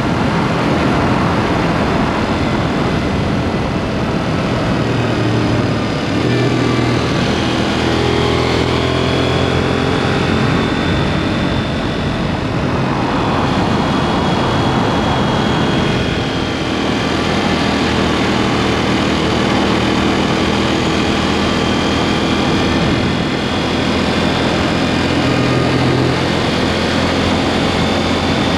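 KTM 790 Duke's parallel-twin engine running under way through an aftermarket SpeedPro Cobra SPX exhaust. The revs rise and fall several times, and about halfway through the engine note drops back under a rushing noise before picking up again. It is heard close up from under the pillion seat cowl.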